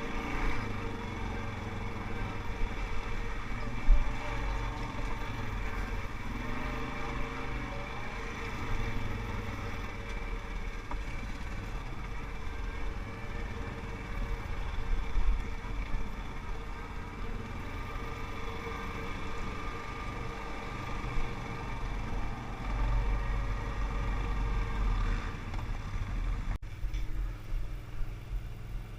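ATV engine running steadily with a low rumble, with one loud thump about four seconds in and an abrupt change in the sound a little before the end.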